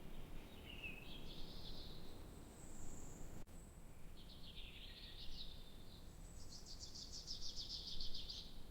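Songbirds singing: a few short warbling phrases and a high thin note, then a fast trill of rapid notes near the end, over a low steady background rumble.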